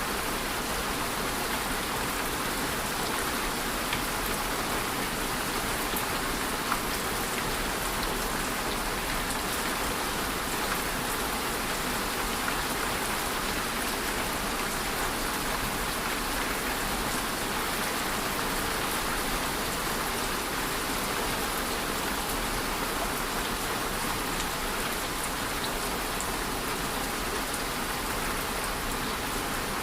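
Steady rain falling, an even hiss with scattered drop ticks and no letup.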